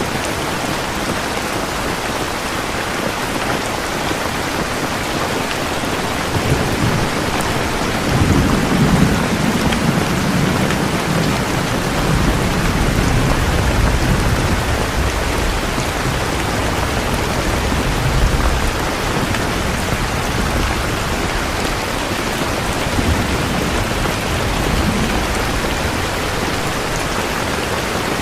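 Steady, even rain. A low rolling rumble of thunder builds about a third of the way in, is loudest soon after, and dies away before two-thirds of the way through.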